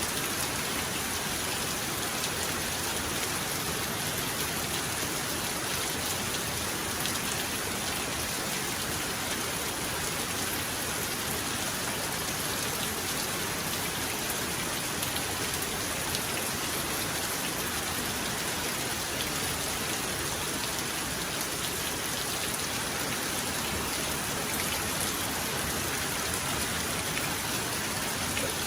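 Heavy rain falling steadily, a dense, even hiss of drops on surfaces with no thunder.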